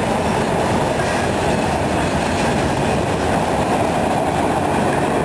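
Ballast cars of a freight train rolling past, their steel wheels running on the rails with a steady noise.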